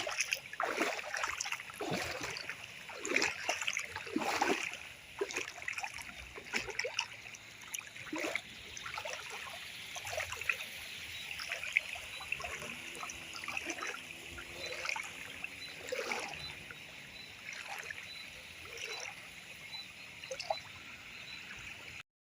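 River water running and splashing, with many irregular splashes over a steady rushing hiss.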